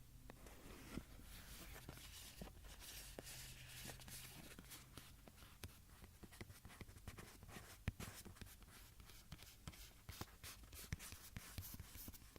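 Soft, close-up scratching with many small irregular clicks and taps, from objects being handled and rubbed for ASMR trigger sounds.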